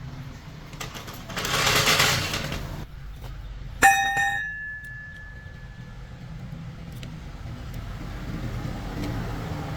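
A metal part struck once, sharp and ringing on clearly for a couple of seconds, after a second-and-a-half rush of noise, over a steady low mechanical hum.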